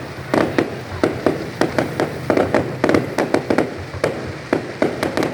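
Fireworks going off in a rapid, irregular volley of sharp bangs, several a second, each with a short trailing rumble.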